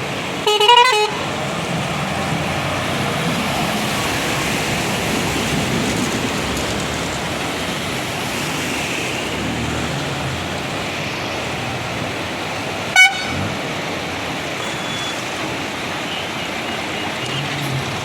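Vehicle traffic wading through flood water, a steady wash of engine, tyre and water noise. A horn honks loudly about half a second in for about half a second, then gives a second, short honk later on.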